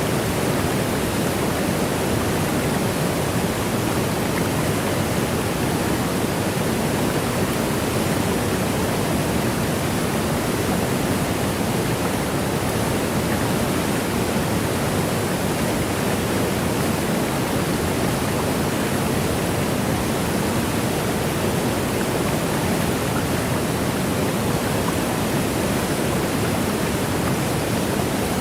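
Waterfall: a steady, unbroken rush of falling water, with no separate splashes or drips standing out.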